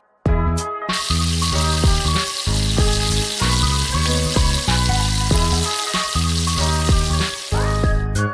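Fish frying in hot oil, a dense, steady sizzle that sets in about a second in and thins out near the end, with background music over it.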